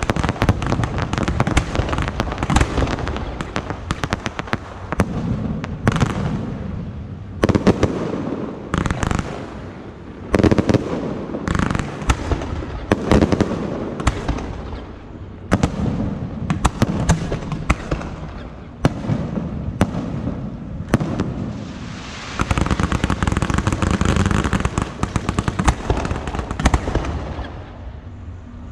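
Fireworks going off in rapid succession: many sharp bangs and reports, irregularly spaced, that turn into a dense, continuous crackling for a few seconds about three-quarters of the way through.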